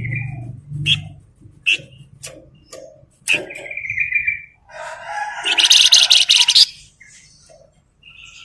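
Flamboyan songbird calling: sharp single chirps and a short high trill, then a loud harsh rattling chatter for about a second and a half past the middle, with softer chirps after it.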